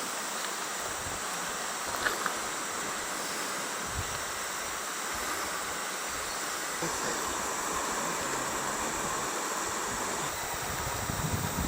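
Steady hiss of rainforest background sound, with a couple of faint clicks about two seconds in.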